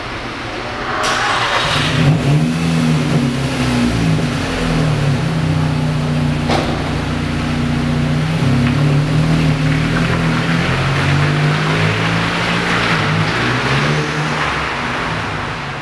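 VW Golf GTI Mk5's turbocharged four-cylinder engine starting about a second in, then running through twin exhaust tips, its revs rising and falling several times. A single sharp click comes in the middle.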